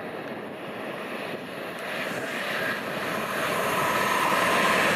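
Train approaching, its rumble and rushing growing steadily louder, with a faint whine coming in about three and a half seconds in.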